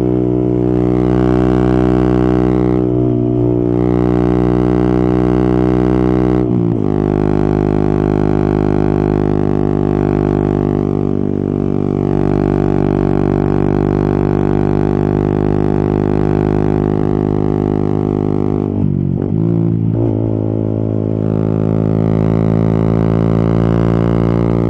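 Yamaha XSR 155's single-cylinder engine running under way, a steady droning note. The note shifts abruptly about six and a half seconds in and wavers briefly near the nineteen-second mark before settling again.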